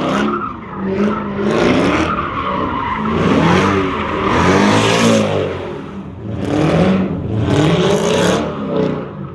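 Car engine revving up and down again and again, its pitch rising and falling about once a second, over a loud hiss.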